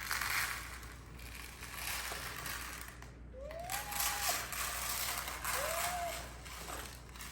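Dry rice being tipped and shaken out of a robot vacuum's dustbin into a bucket: a continuous rattling hiss of grains with scattered small knocks.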